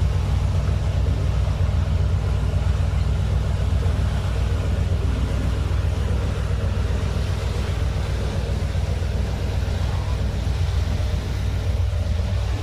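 Steady low rumble of a ferry's engines underway, with hull and water noise above it.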